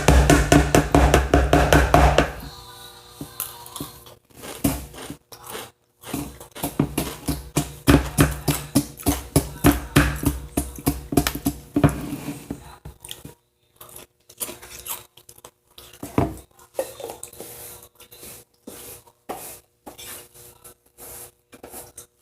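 Music with a beat for roughly the first half, then scattered light clinks and knocks of a spoon and bowl, with crunchy chewing of cereal.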